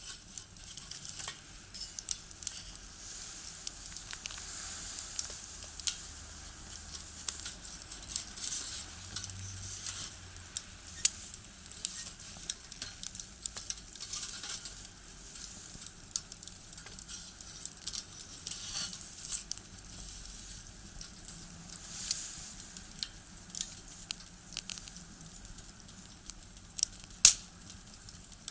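Firewood burning in a small box stove, crackling with frequent sharp pops and snaps over a soft hiss. One much louder snap comes near the end.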